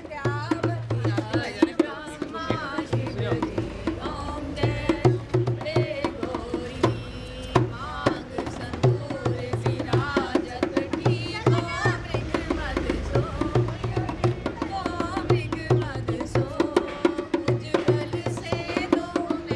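Dholak hand drum beating a steady folk rhythm while voices sing a traditional wedding song.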